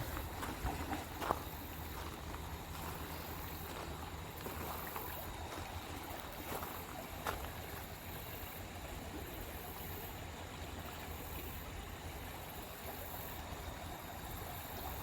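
Steady rush of flowing stream water over a low rumble, with a couple of sharp clicks about a second in and about seven seconds in.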